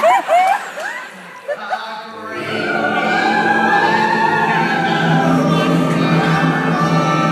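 A singing voice sliding up and down in pitch, then about two seconds in a chorus of voices comes in on one long held chord.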